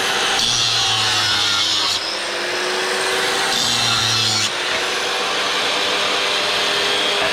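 Electric power tool running steadily at the workbench and bearing into the work twice, for about a second and a half and then about a second, each time with a harsher hiss.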